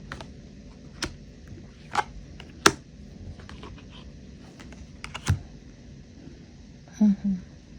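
Tarot cards being handled and tapped on a table: a handful of separate sharp taps and clicks, with two short low knocks close together near the end.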